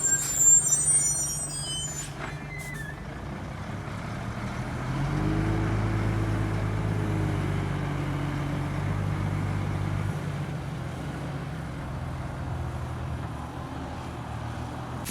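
Heavy diesel engine of construction machinery running, working harder about five seconds in and easing off again after about ten seconds. A high metallic squeal sounds in the first couple of seconds.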